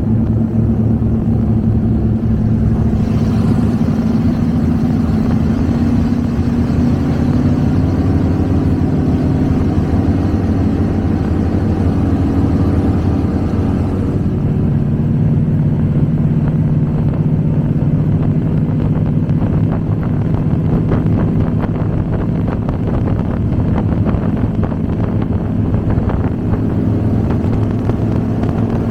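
Twin V8 engines of an Avanti 33 power boat running steadily, a loud continuous drone with a change in engine note about halfway through.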